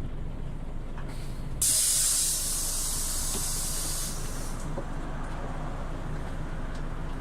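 Scania OmniLink city bus's pneumatic system letting out compressed air: a short faint hiss about a second in, then a loud hiss lasting about three seconds, over the bus engine's steady running.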